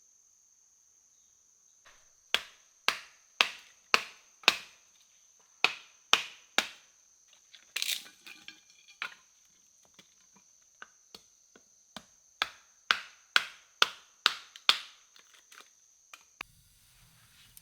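A run of sharp knocks of a tool striking wood, about two a second in runs of several strikes with short pauses between them. A steady high insect drone runs beneath and stops near the end.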